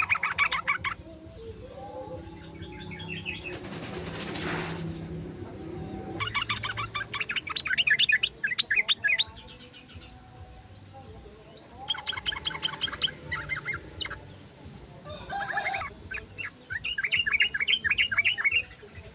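Yellow-vented bulbul (trucukan) singing in four bursts of fast, bubbly chattering notes, each lasting one to three seconds with short pauses between. A brief rushing noise comes about four seconds in.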